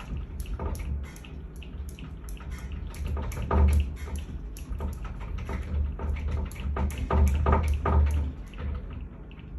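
Earthquake shaking: rapid rattling and clattering of loose objects over a low rumble that swells and fades several times, dying down near the end.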